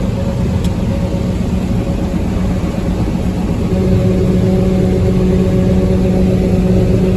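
Combine harvester running while harvesting corn: a steady engine and machinery drone, with a low hum that grows louder about halfway through.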